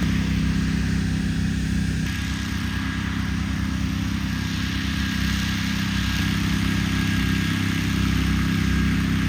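Car running with steady engine and road noise, a low hum that eases slightly about two seconds in.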